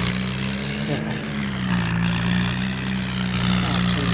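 Swaraj tractor's diesel engine running steadily under power; its pitch rises slightly about a second in, then settles back.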